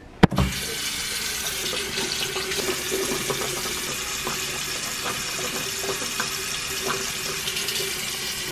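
Sink tap running steadily into a basin, water for brushing teeth, after a sharp click just as it starts.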